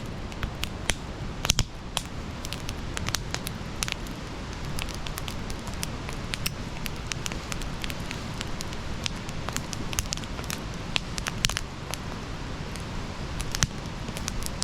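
Wood fire burning with irregular crackles and sharp pops over a steady low rumble of the flames.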